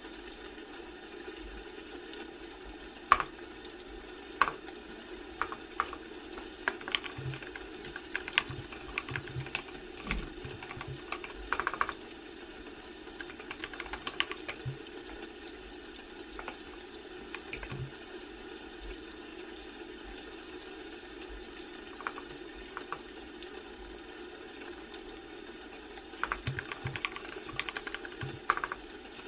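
Computer keyboard being typed on in short bursts of keystrokes with pauses of several seconds between, over a steady background hum.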